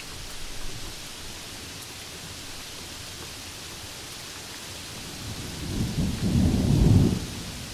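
Steady rain hissing, with a roll of thunder that builds from about five seconds in to a loud low rumble near the end, then dies away quickly.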